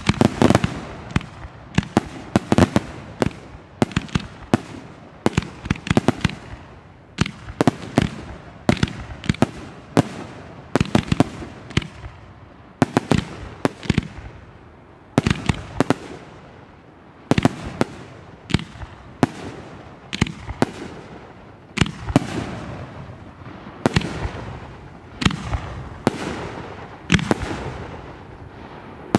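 Aerial fireworks display: shells bursting in quick succession, an irregular stream of sharp bangs, often several a second and sometimes in clusters, each trailing off in an echo.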